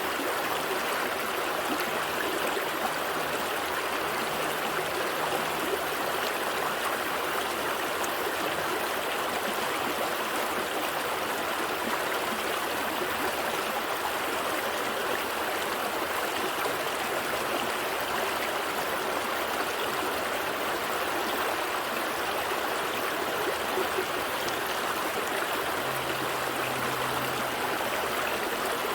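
Gentle stream flowing steadily, a continuous rushing and trickling of water with no breaks.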